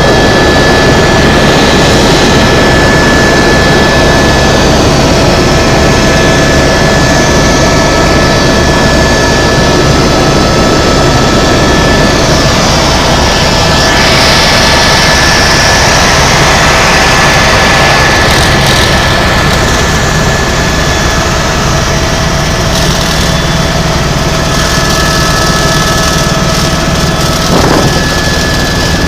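Tour helicopter's turbine engine and rotor running steadily, heard from inside the cabin: a dense low rumble under a steady high turbine whine, easing slightly in the last third.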